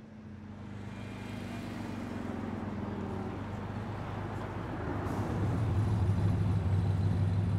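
A city bus pulling up, its engine growing louder as it approaches while the engine note drops as it slows, then a steady low rumble as it stands.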